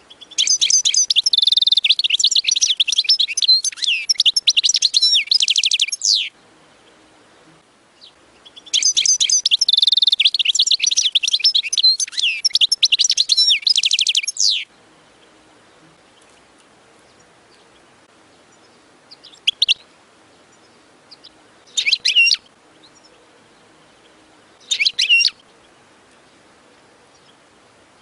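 European goldfinch singing: two long song phrases of rapid high notes, each about six seconds, then three short calls a few seconds apart.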